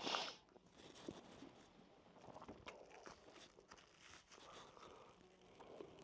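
Faint chewing and mouth sounds of someone eating, with scattered small clicks. A short, louder noisy burst comes right at the start.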